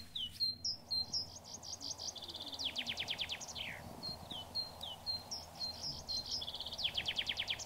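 A songbird sings the same short song twice. Each song is a run of quick notes that speeds up into a rapid trill and ends in a falling flourish.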